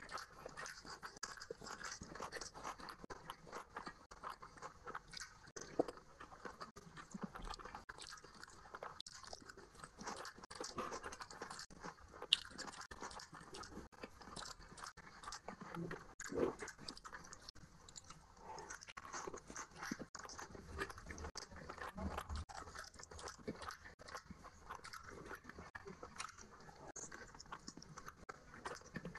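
Close-miked chewing and wet mouth sounds of a person eating rice and curry by hand: a dense run of small crackles and smacks, with a few sharper clicks.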